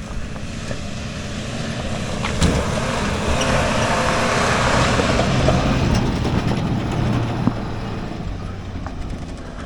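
A motor vehicle's engine running, swelling louder through the middle and then fading away, with a couple of short knocks.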